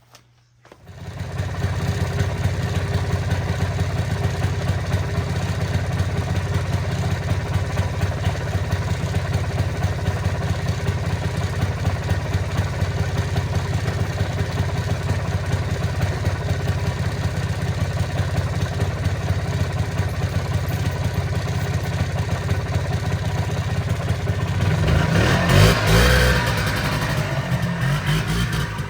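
1995 Polaris Trail Boss 250 ATV's two-stroke single-cylinder engine running steadily, coming in about a second in after near silence, revved up louder and rougher near the end.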